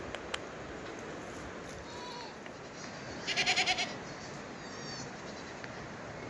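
A goat bleating once: a short, wavering, pulsing call about three seconds in, over a steady background hiss.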